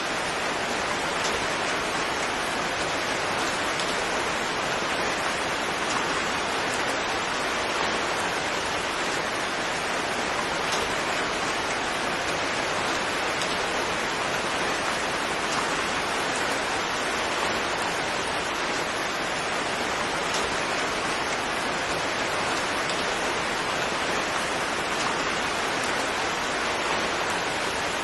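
Steady, even rain with a dense hiss of drops and no distinct thunder or single splashes.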